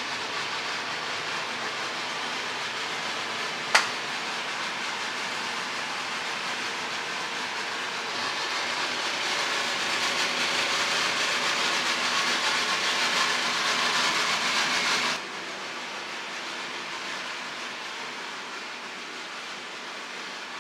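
Airliner cabin noise: a steady rushing hiss of engines and airflow that grows louder about halfway through, as on a takeoff run. There is a single sharp click at about four seconds, and the level drops suddenly near the end.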